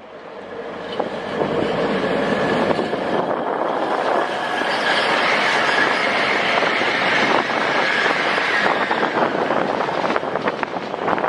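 A train running past close by, growing louder over the first couple of seconds, with a high steady squeal from the wheels in the middle and rapid clicking of the wheels over the rail joints near the end.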